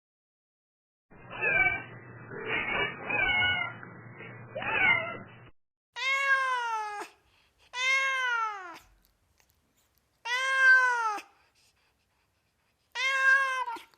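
A cat meowing: a muffled, thinner-sounding run of meows for the first few seconds, then four separate clear meows, each about a second long, rising then falling in pitch.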